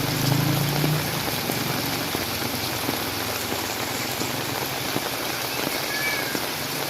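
Heavy rain falling steadily, an even hiss. A low vehicle engine hum fades out about a second in.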